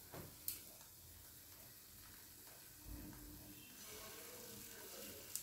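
Faint sizzling of pancake batter frying in a little oil in a pan on low flame, with a light click about half a second in. The sizzle picks up slightly near the end as more batter is poured into the hot oil.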